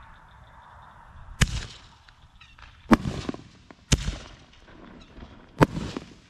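Four loud fireworks bangs from consumer mortar shells, one to two seconds apart, each followed by an echoing tail.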